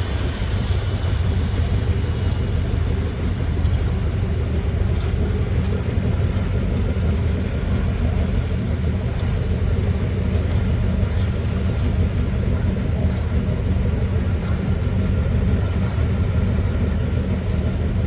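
Diesel-electric locomotive engine running steadily with a deep, even rumble, with light irregular ticks high over it.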